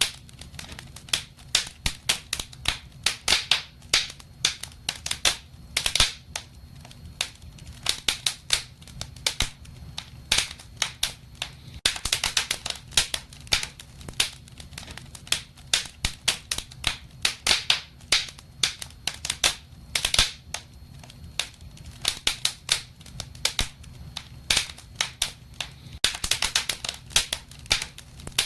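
Wood fire in a fireplace crackling: dense, irregular sharp pops and snaps, several a second, over a steady low rumble of the flames.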